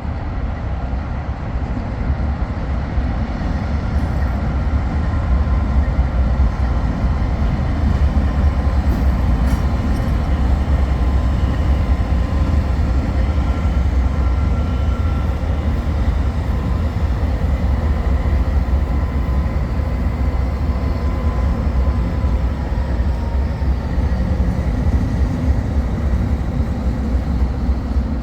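Diesel-electric freight locomotives running, a steady low rumble.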